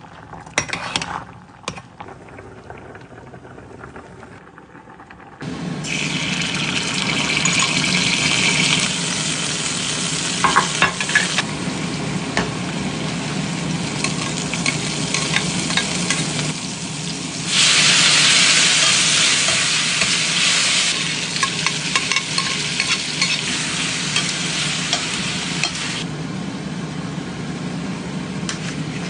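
A few clicks, then from about five seconds in food sizzling in a frying pan, stirred now and then. The sizzle grows louder twice for a few seconds.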